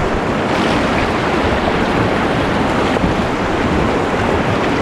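River whitewater rushing loudly and steadily around an inflatable raft as it runs a rapid, with some wind buffeting the microphone.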